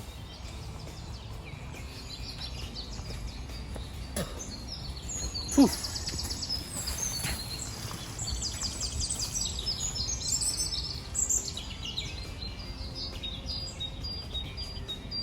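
Small woodland birds singing and calling, a mix of high chirps and rapid trills, over a low steady rumble. A faint click about four seconds in and a sharp knock about five and a half seconds in.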